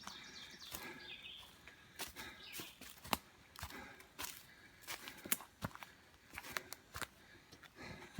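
Scattered footfalls on a trail, short knocks coming irregularly, with birds chirping faintly.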